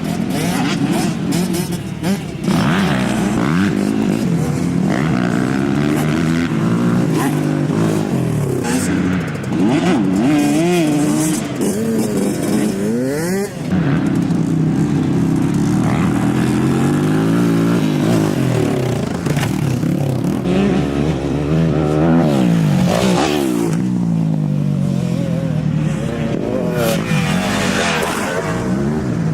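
Several motocross dirt bike engines running at once on a track, their pitch repeatedly rising and falling as they rev, shift and pass by.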